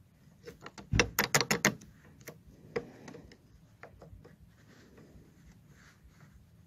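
Ratchet wrench clicking on a bolt: a quick run of about six sharp metallic clicks about a second in, then a few scattered fainter clicks.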